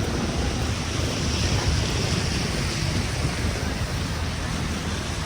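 Steady rushing street noise of a snowy city night, an even hiss with a low rumble and no single sound standing out.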